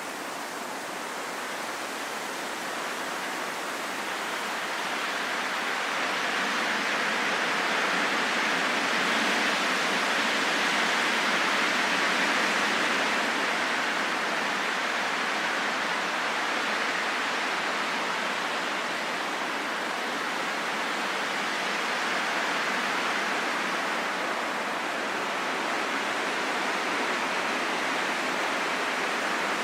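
Wind blowing as a steady rushing hiss, swelling over the first several seconds and easing a little after.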